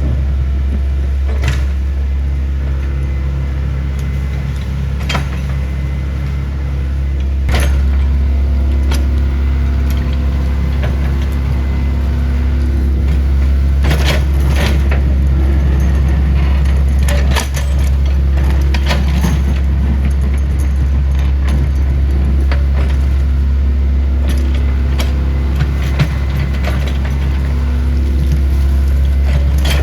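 Excavator's diesel engine running steadily with a deep drone, with sharp metallic knocks and clanks every few seconds.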